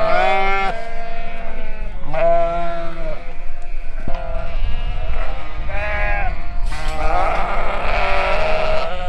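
Ewes and lambs penned together bleating, with a string of long calls one after another, some overlapping, as the ewes are being sorted away from the lambs at weaning.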